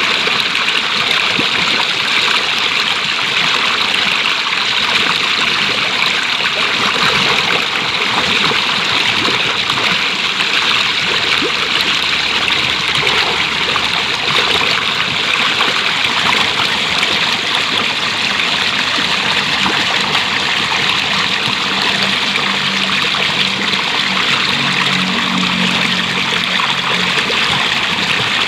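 Stream water flowing steadily, an even rushing and trickling that does not let up. A faint low hum joins in during the last third.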